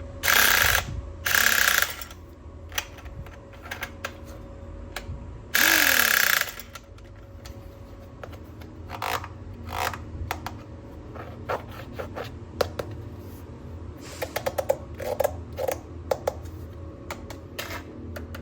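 Hands handling plastic toy-gun parts and packaging: many small clicks and snaps, with three louder rasping bursts of about half a second each, two near the start and one about six seconds in.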